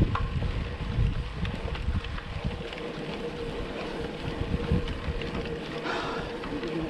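Wind buffeting the microphone of a rider moving along a highway, with a steady rumble of the ride and traffic underneath and a faint steady hum.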